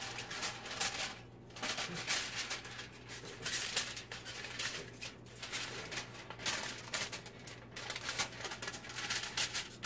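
A sheet of aluminum foil crinkling and crackling in irregular rustles as it is folded by hand, over a faint steady hum.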